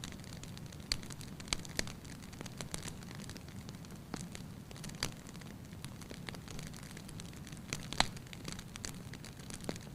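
Wood fire in a fireplace crackling, with irregular sharp pops, the loudest about eight seconds in, over a steady low rumble.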